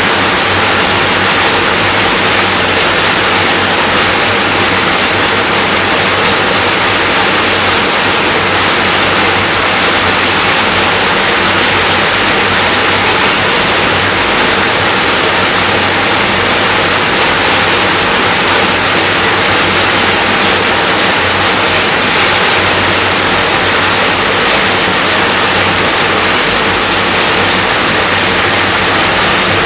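Steady rainfall, an even, unbroken hiss of many drops that holds the same level throughout.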